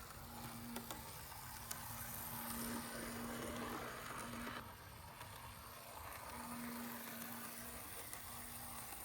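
Märklin Z scale V36 diesel locomotive model running on track: its tiny electric motor hums steadily under the hiss and rattle of the wheels, with a few faint clicks. The running noise swells, then drops off sharply about four and a half seconds in.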